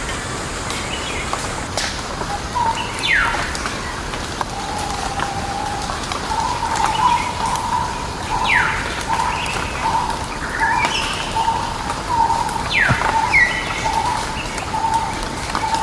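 Wild forest birds calling: a sharp whistle falling steeply in pitch, repeated about four times, over a fast run of notes held at one pitch that starts a couple of seconds in, with a steady hiss of background ambience.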